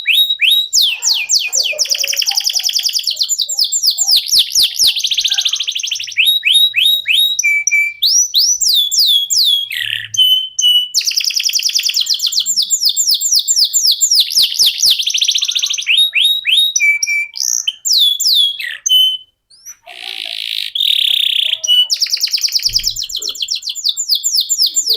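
Canary singing a long, continuous song of fast trills, each made of rapidly repeated downward-sweeping notes, with a few short steady whistles between the trills. The song breaks off for a moment about three quarters of the way through, then goes on.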